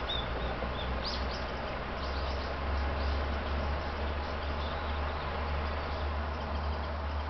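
Low steady rumble of an approaching Kotoden Shido Line electric train, growing stronger about two seconds in, under an even outdoor hiss. A few short high chirps in the first second and a half.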